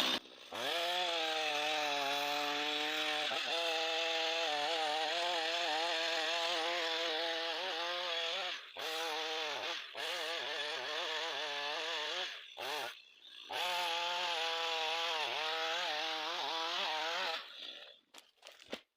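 Two-stroke chainsaw cutting into a standing tree trunk. Its engine note wavers as the load changes, dips briefly three times, and cuts off near the end.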